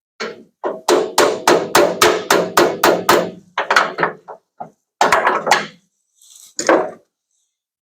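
Body hammer striking the steel sheet metal of a pickup bed to work out a dent: a quick run of about four sharp blows a second, then a few scattered blows and one last strike near the end.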